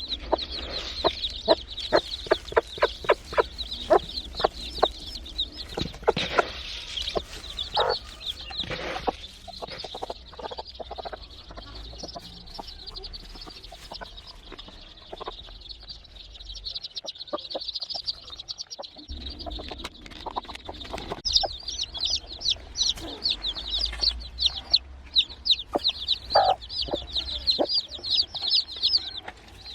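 A hen clucking among her newly hatched chicks, which keep up a constant high peeping. The hen's short clucks come in a quick run over the first several seconds and then more sparsely. The chicks' peeping grows densest near the end.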